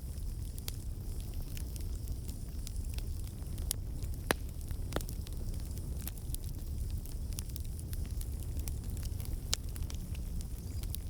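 Campfire burning: a steady low rumble of flames with scattered sharp crackles and pops of burning wood, two of them louder, a little past a third of the way in and near the end.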